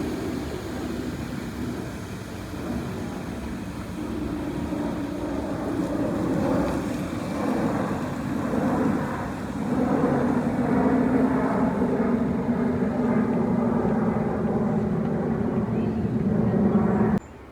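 Jet airliner passing low overhead: a steady engine roar that grows louder over the first several seconds, holds, then cuts off suddenly near the end.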